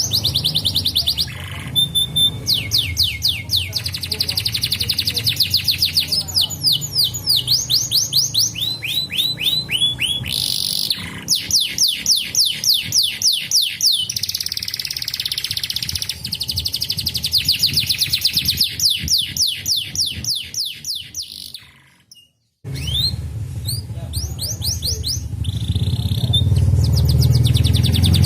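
Domestic canary singing in fast trills: long runs of rapidly repeated, down-slurred high notes that change from one trill type to another every second or two. The song breaks off for a moment about three-quarters of the way through, then resumes, over a low steady hum.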